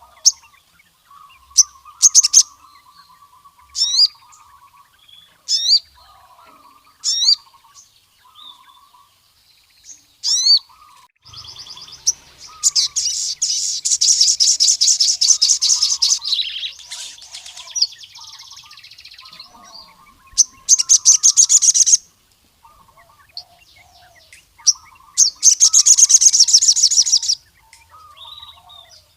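Male sogon sunbird singing vigorously: sharp, quick sweeping chirps broken by three long, fast, high rattling trills, the first and longest a few seconds in. Beneath it runs a softer, lower warbling.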